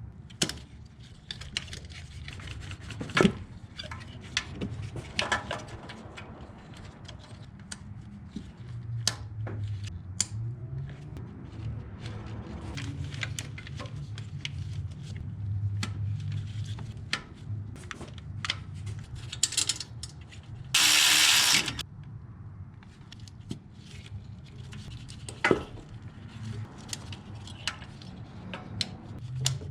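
Scattered clicks, knocks and metallic clinks of tools and parts being handled during hand work on an engine. About two-thirds of the way through, a loud rushing hiss lasts about a second.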